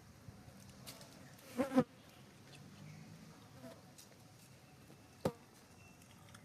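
Flies buzzing close by. About one and a half seconds in comes a short pitched call, the loudest sound, and a single sharp click follows a few seconds later.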